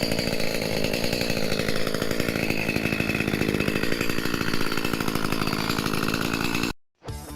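Chainsaw running and cutting wood, its pitch shifting a little as it works through a fallen tree. The sound cuts off abruptly near the end and guitar music starts.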